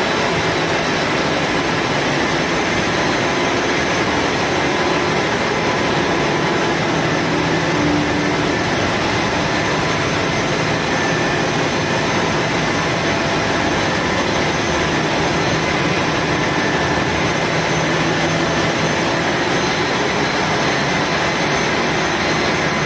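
Engine-room machinery running: a loud, steady drone with faint steady hums, unchanging throughout.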